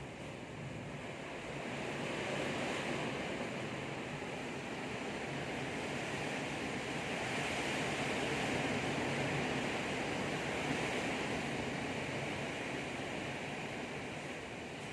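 Heavy rain pouring in a strong windstorm: a steady rushing roar that swells a little about two seconds in.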